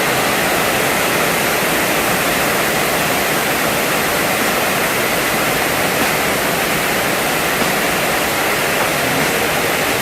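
Floodwater rushing, a steady, even noise that does not change.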